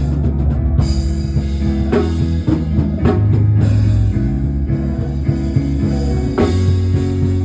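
Band music with electric guitar, bass and drum kit playing a steady beat.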